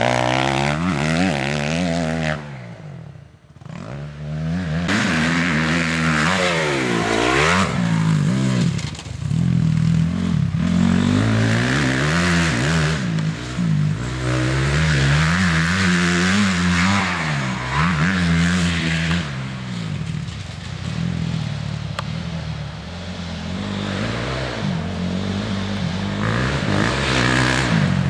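Motocross dirt bike engine revving up and down over and over, its pitch rising and falling with the throttle and gear changes. The sound drops away briefly about two to four seconds in.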